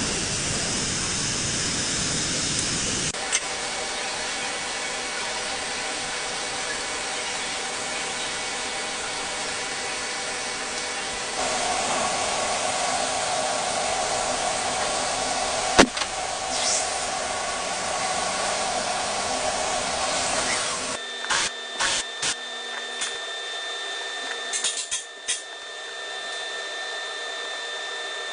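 Machine tool running during machining: a steady hiss with a few steady tones, louder from about a third of the way in. About three-quarters through the hiss stops, leaving a steady high whine and a run of sharp clicks.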